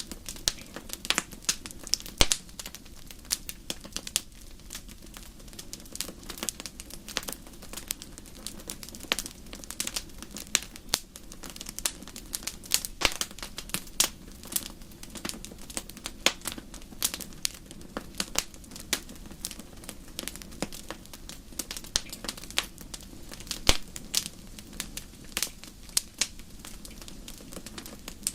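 Wood fire crackling: irregular sharp snaps and pops, several a second, over a steady low rush of the burning fire.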